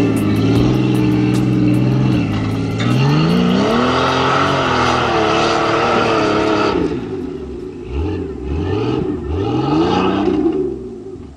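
Jeep Cherokee's stroker engine revving hard under load up a steep dirt hill climb: the pitch holds, then climbs about three seconds in, and late on swings up and down several times as the throttle is worked and the wheels scrabble, before dropping away near the end.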